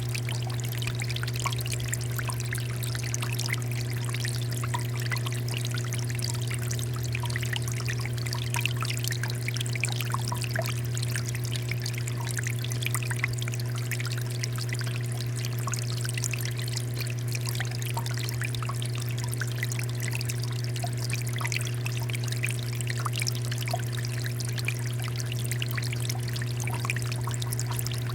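Water fountain flowing and splashing steadily, a continuous pouring hiss full of small splashes, over a steady low hum.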